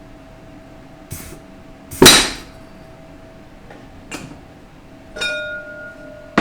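Metal transmission parts knocking and clanking as they are handled and set down on a workbench during a teardown: a few separate knocks, the loudest about two seconds in, and one near the end that rings briefly.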